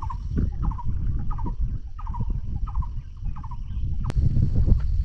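An animal, likely a bird or fowl, gives a series of short calls that fall in pitch, about two a second, ending a little past the middle, over a steady low rumble. A single sharp click comes near the end.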